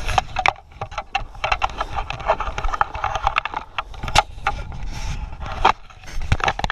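Hurried footsteps crunching over snow-covered lake ice, an irregular run of short crunches.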